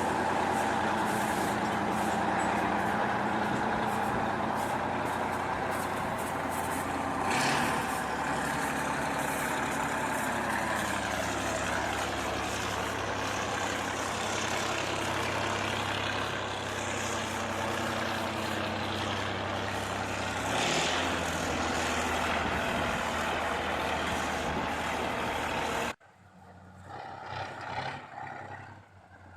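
KhTZ T-150 tractor's YaMZ-236 V6 diesel engine running steadily, its pitch shifting a couple of times. There is a short hiss about 7 seconds in and another about 21 seconds in. Near the end the engine sound cuts off suddenly, leaving something much quieter.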